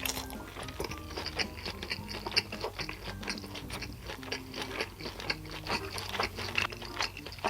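Irregular crunching and clicking from food preparation in a kitchen, over quiet background music.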